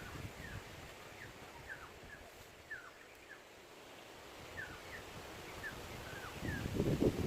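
Short, high chirping calls from a small animal, each sliding down in pitch, repeated about twice a second. Rustling and handling noise picks up near the end.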